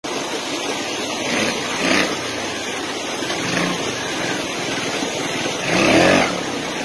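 Motorcycle engines revving over a steady noisy background, with two louder swells of rising and falling engine pitch, about two seconds in and near the end.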